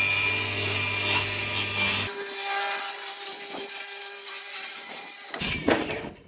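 Electric saw cutting through wood, its motor humming steadily under load. About two seconds in the low hum drops away while the cutting noise goes on, and a short louder rasp comes near the end before the sound stops.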